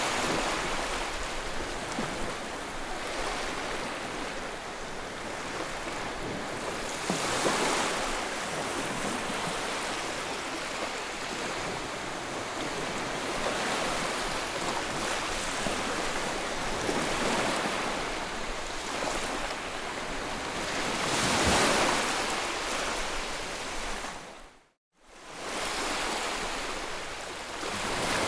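Ocean surf washing in continuously, swelling and receding every several seconds. Near the end the sound fades out briefly to silence, then fades back in.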